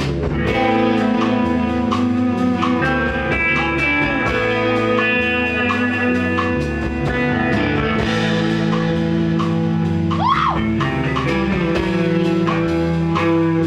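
Live rock band playing an instrumental passage: electric guitar, bass and drum kit, with a sliding, bending guitar note about ten seconds in.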